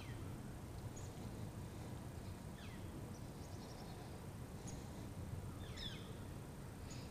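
Faint outdoor ambience: a steady low rumble with scattered bird calls, short downward chirps every second or so and a quick run of ticks a little after the third second.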